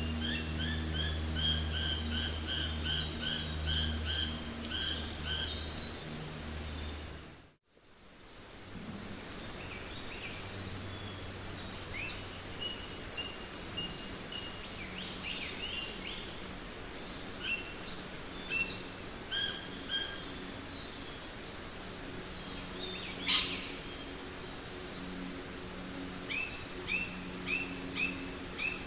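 Jungle ambience: several birds singing and calling over a steady background hiss, starting with a fast repeated chirping song over a low steady hum. About a quarter of the way in, the sound cuts out to near silence for a moment and comes back as scattered bird calls, with one loud sharp call and a quick run of chirps near the end.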